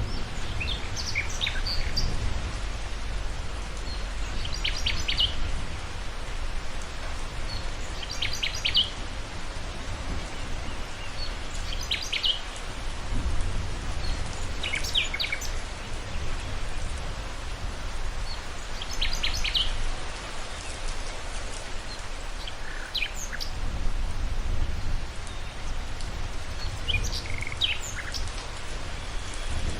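Steady rain with a low rumble underneath. A songbird sings short bursts of high chirps, one every three to four seconds.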